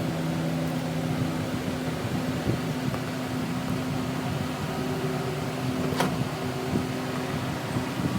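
Steady machine hum, with one sharp click about six seconds in.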